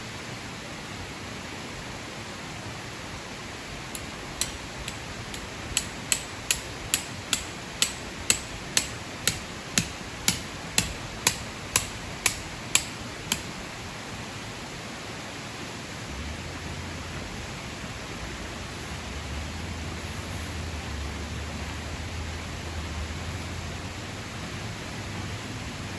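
A run of sharp, evenly spaced strikes, about two a second for roughly ten seconds, over a steady hiss. A low hum comes in a little after the strikes stop.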